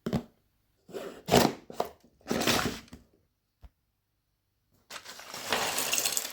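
Hands handling LEGO packaging: a few short knocks and crackles, then a stretch of rustling or rattling that builds up about five seconds in.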